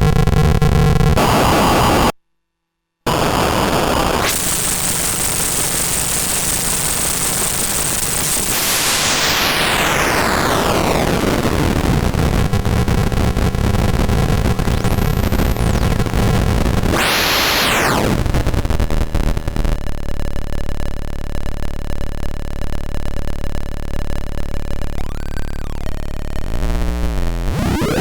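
Paratek "Kosmicheskiy Shum" Eurorack noise module, a Jupiter Storm-style unit built on square-wave oscillators, putting out harsh, noisy space-noise textures. It cuts out completely for about a second near the start. Then a long pitch sweep falls, a short sweep rises and drops back around the middle, and the sound settles into steadier held tones.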